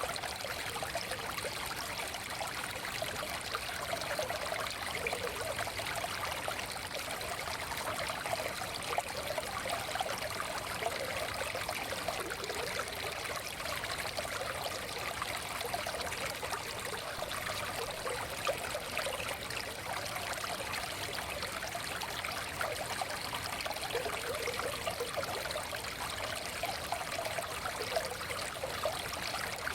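Forest stream flowing and trickling over stones, a steady babble of water with no breaks.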